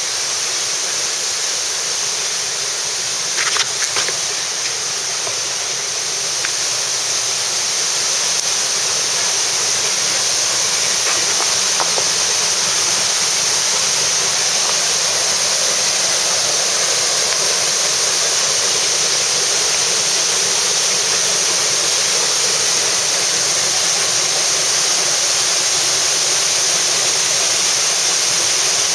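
Waterfall: a steady rush of falling water, growing slightly louder about eight seconds in, with a few brief clicks near the start.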